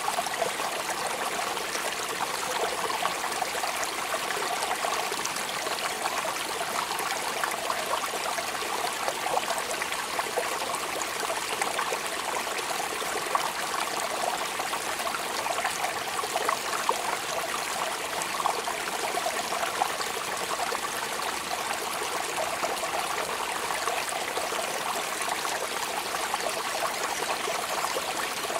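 Steady rain, a dense spray of small drop impacts over a constant trickle of running water, with no change throughout.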